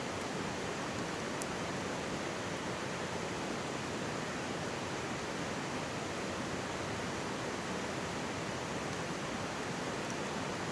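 Steady rush of a mountain stream flowing close by, with a few faint crackles from a wood campfire.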